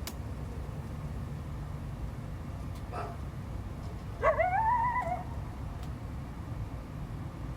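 Coyote calling: a short faint yelp about three seconds in, then a louder howl about a second long that rises in pitch and holds. A steady low rumble runs underneath.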